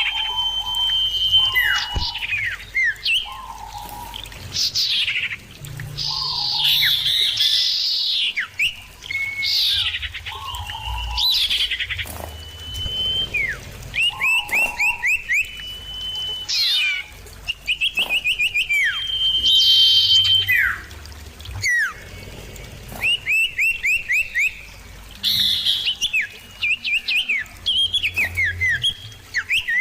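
Common ioras calling back and forth in clear, loud whistles: quick downward-sweeping notes, short held whistles and fast runs of repeated short notes, one phrase after another with brief gaps. A low hum runs underneath.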